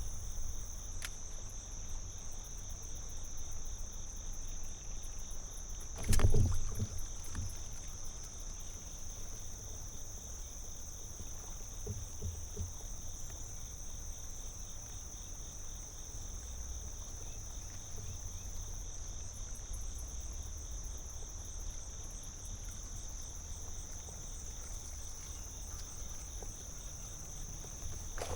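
Steady high-pitched insect chorus over a low rumble of water or wind against the kayak, with one loud thump about six seconds in.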